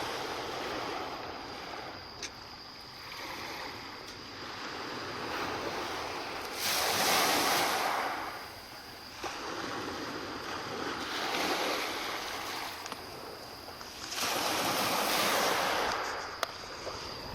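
Sea waves washing in, a hiss that swells and falls back every few seconds. The biggest surges come about seven seconds in and again near the end.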